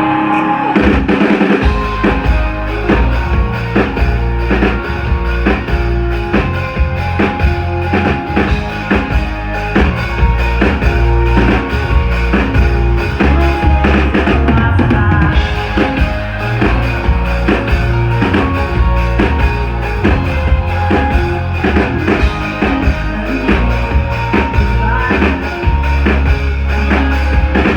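Live indie rock band playing an instrumental passage with a full drum kit, bass and guitars, loud and driving with a steady beat, recorded from the crowd.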